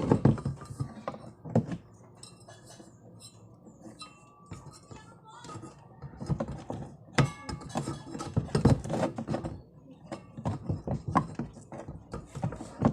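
Irregular clinking and knocking of hard objects being handled, in scattered clusters with a quieter stretch in between.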